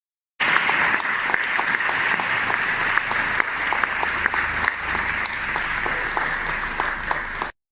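Studio audience applause and cheering, a dense patter of clapping that starts suddenly about half a second in and cuts off abruptly near the end: a canned applause clip.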